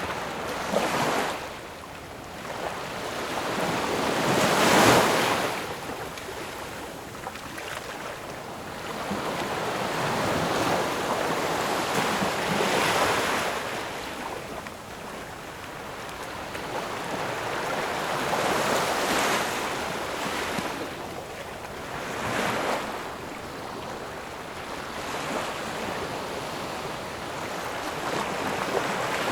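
Ocean waves breaking and washing in, each surge swelling and falling back every few seconds, the loudest about five seconds in.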